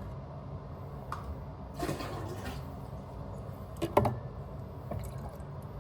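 Water draining and trickling out of a shut-off household supply line, with a few light clicks and one sharp knock about four seconds in.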